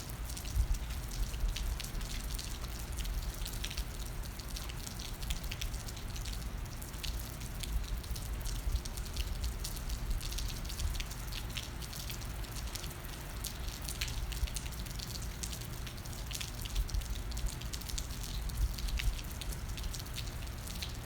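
Rain falling, with many small drops ticking irregularly close to the microphone over a low, steady rumble.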